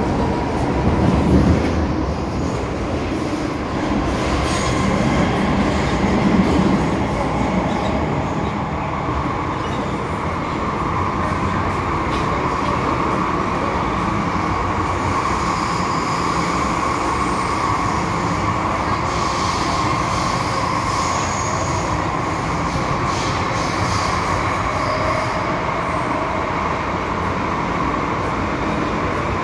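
MTR M-Train metro cars running along the line, with steady running noise and a continuous whine. Two louder bumps come about a second and a half in and again about six and a half seconds in.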